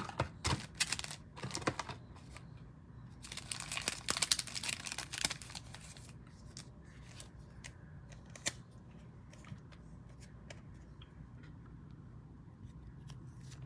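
Trading-card pack wrapper and cards being handled: a few light clicks, then a crinkling, tearing stretch about three to five seconds in, followed by scattered soft ticks of cards being shuffled.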